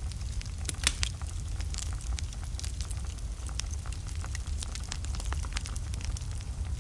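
Wood fire burning in a fireplace, crackling with frequent sharp pops over the steady low rumble of the flames; one louder pop comes about a second in.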